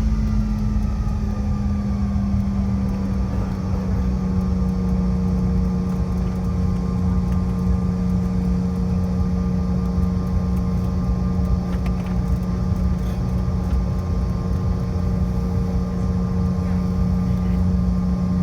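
Steady hum of a CRJ700's two rear-mounted GE CF34 turbofan engines, heard inside the cabin. Several held tones sit over a low rumble; they dip slightly in pitch over the first few seconds, then stay level.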